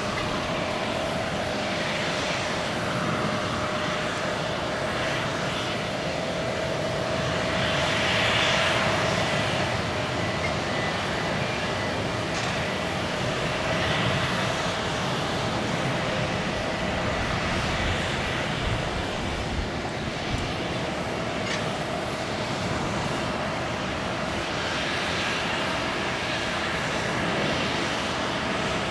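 Jet airliner's engines at takeoff power, a steady, loud noise with a held whine.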